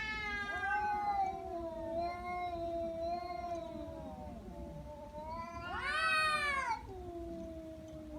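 An angry cat's drawn-out threat yowl: a long, wavering low moan that swells into a louder, higher wail about six seconds in, then sinks back.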